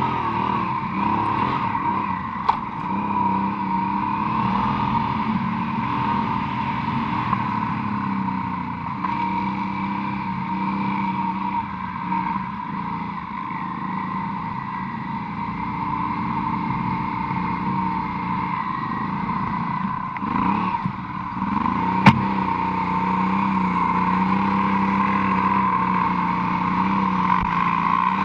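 Honda Transalp motorcycle engine running steadily under way. Its pitch dips and climbs again about three-quarters through as the throttle is eased and reopened, with a sharp knock at that moment and a lighter one near the start.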